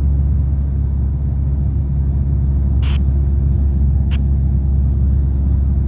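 Single-engine Cessna's piston engine and propeller droning steadily in the cabin during cruise, with two brief clicks about three and four seconds in.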